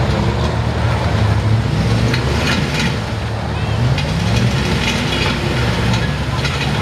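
Big Dodge mud truck's engine running and revving, its pitch rising and falling a few times, with people's voices alongside.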